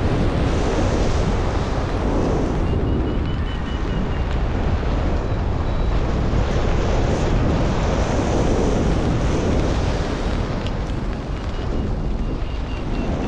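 Wind rushing over the microphone in flight: a steady, loud buffeting, heaviest in the low end. A faint high tone is heard twice.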